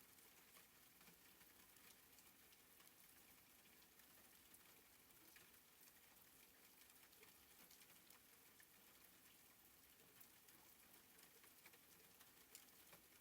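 Faint, soft rain: a steady gentle patter with scattered individual drops ticking.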